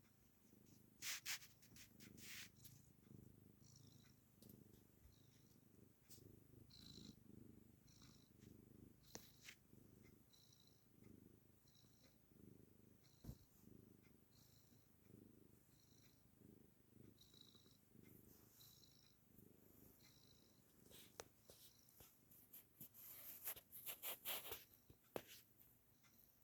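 Domestic cat purring contentedly, a faint low rumble that swells and eases in a steady rhythm. A few brief rustles come near the start and a cluster of them about three quarters of the way through.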